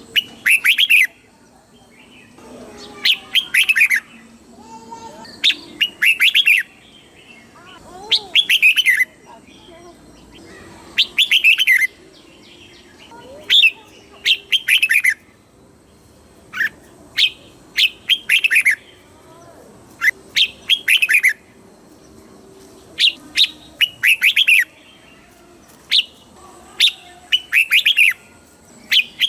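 Red-whiskered bulbul singing: short loud phrases of quick falling whistled notes, repeated about every two to three seconds, about eleven phrases.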